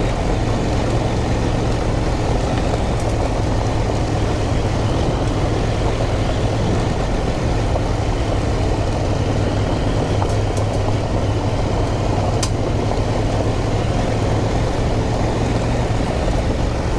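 KTM 890 Adventure R's parallel-twin engine running at a steady pace off-road, mixed with wind and rough-ground noise. A few brief sharp clicks come a little past halfway.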